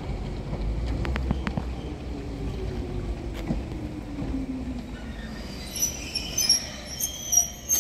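Izuhakone Railway 3000-series electric train pulling into the platform and braking. A low whine falls steadily in pitch over the rumble of the running gear, with a few sharp clicks about a second in. High-pitched squealing in the last two seconds comes as it slows to a stop.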